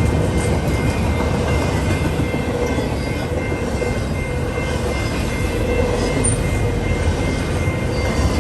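A train rolling past, a loud, steady rumble of wheels on rail.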